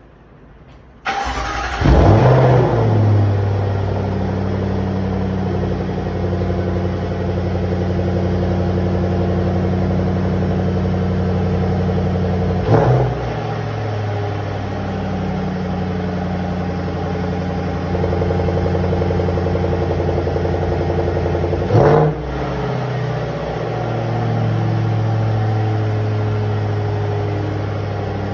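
Jaguar F-Pace SVR's supercharged 5.0-litre V8, with a Mina Gallery intake and stock exhaust, starting about a second in. It flares up in revs, then settles into a steady idle. Later it gives two short throttle blips, about nine seconds apart.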